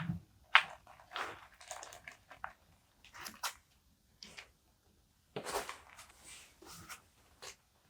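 Paper being handled and rustled: a string of short scratchy rustles with short pauses between them, one longer rustle about five and a half seconds in.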